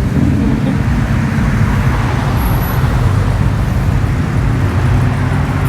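Road traffic passing close by: car engines running and tyres on the road, one vehicle growing louder and fading through the middle.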